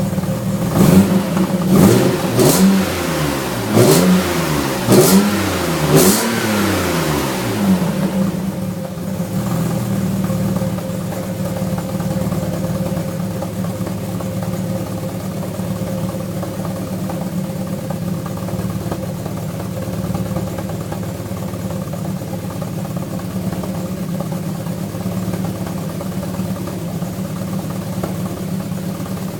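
Alfa Romeo V6 engine, warming up after winter storage, blipped several times in quick succession with a few sharp cracks, then settling to a steady idle about eight seconds in.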